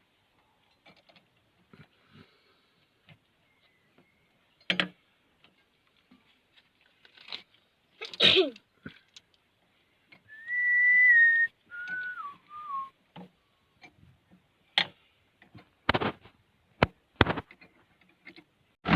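A short whistled phrase: one held note, then a few lower notes stepping down. Scattered clicks and knocks come before and after it.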